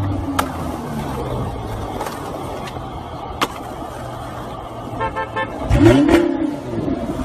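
A car engine running, with a few sharp clicks. About five seconds in a car horn gives quick short toots, followed by a louder sound that rises and falls in pitch.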